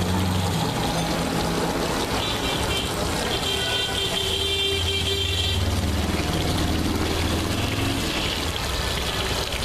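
Busy street traffic: a vehicle engine humming steadily, with horn toots sounding from about two to six seconds in, over a continuous hiss.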